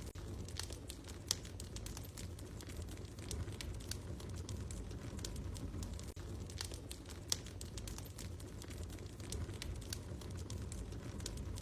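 Wood fire crackling in a fireplace: a steady low rumble of flames with irregular sharp pops and snaps, a few of them louder, about a second in and past the middle.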